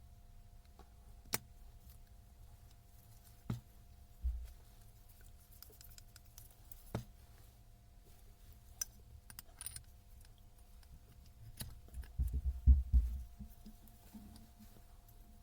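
Scattered sharp clicks and knocks of metal parts being handled on a workbench during a power-tool rebuild. A cluster of heavier low knocks comes about twelve seconds in, over a faint steady hum.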